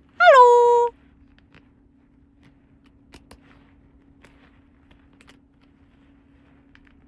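A single short squeak, dipping in pitch and then held for under a second, followed by faint light taps and clicks of small toy pieces being handled, over a low steady hum.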